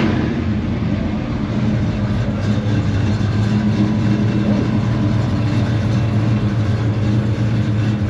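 Car engine idling steadily with a low, even drone, just after being started.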